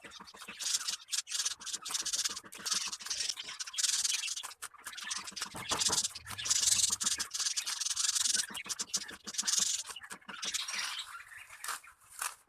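Finches at work on a nest: continual rustling and scratching of nesting material, dotted with many small clicks.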